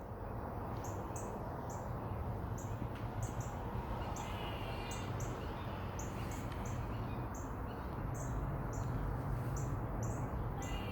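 A squirrel giving a repeated, wavering cry that sounds like a baby crying, heard about every six seconds, with short high chirps running steadily alongside it.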